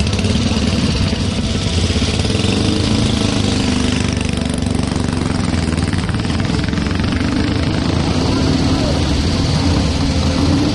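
Motorcycle engine running with a fast, even firing beat, its pitch drifting a little up and down.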